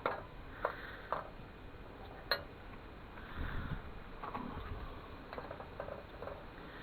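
Sharp metal clicks and taps, about four in the first two and a half seconds, from metal pieces knocking around the lead-melting pot, then a few softer knocks over a faint steady background.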